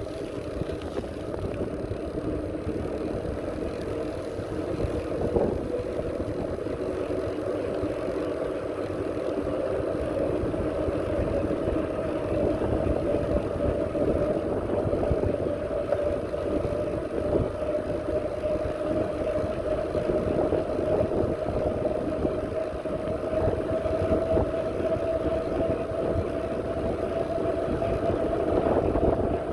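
Steady whine of a small motor, with several tones slowly rising in pitch, over a low rumbling noise.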